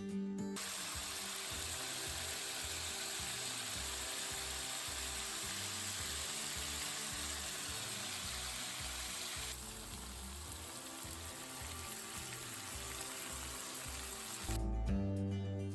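Stir-fry sizzling in oil in a hot pan: a steady frying hiss that turns quieter and duller about ten seconds in.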